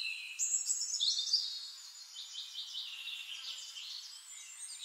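Small birds chirping and trilling, with high notes, short pitch glides and a fast run of repeated notes in the middle.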